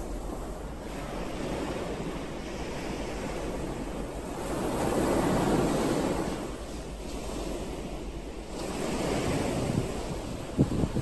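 Ocean waves surging and washing ashore in a continuous rush. The waves swell loudest about halfway through and again near the end. Wind buffets the microphone in short bumps at the very end.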